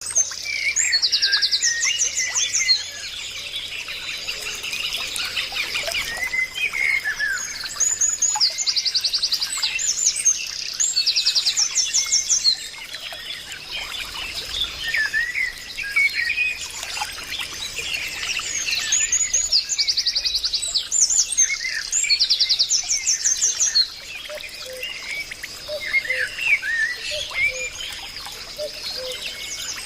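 Birdsong: several birds chirping, with fast high trills that come in loud stretches every few seconds.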